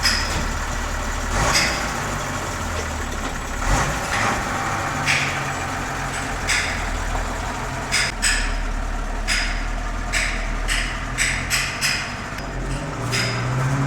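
A truck's diesel engine idling steadily, with sharp metallic knocks and clanks over it, coming more quickly in the second half.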